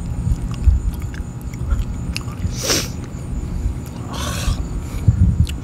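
A person chewing a mouthful of chicken close to the microphone, with faint wet clicks, a steady low wind rumble on the microphone, and two short breaths about halfway and three-quarters of the way in.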